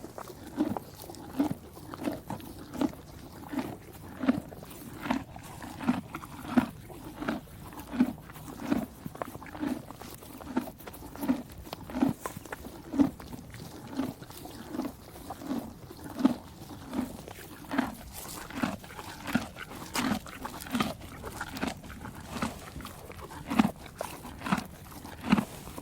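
An animal making short, evenly repeated sounds, about three every two seconds.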